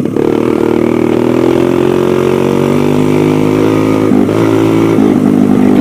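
Dirt bike engine running under way, its pitch sagging slowly and then changing again about four seconds in.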